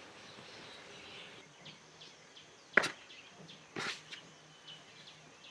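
Quiet outdoor background with faint, short bird chirps. A single sharp knock comes about halfway through, followed by a softer thump about a second later.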